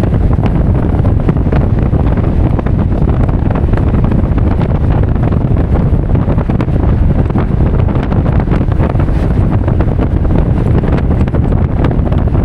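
Wind buffeting the microphone: a steady, loud low rumble with constant small crackles.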